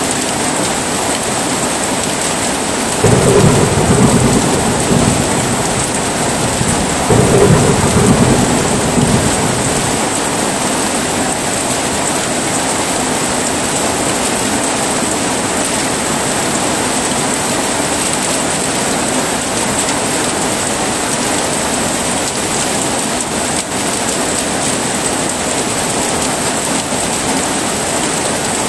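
Steady heavy rain with two rolls of thunder, the first about three seconds in and the second about seven seconds in, each rumbling for two to three seconds before the rain carries on alone.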